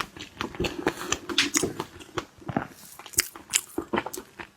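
Close-miked eating of seafood: irregular wet bites, crunches and mouth clicks as the food is chewed.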